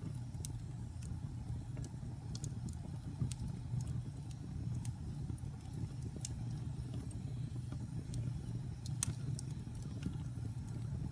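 Wood fire burning in a fireplace: a steady low rumble of flames with scattered sharp crackles and pops, the loudest pop about nine seconds in.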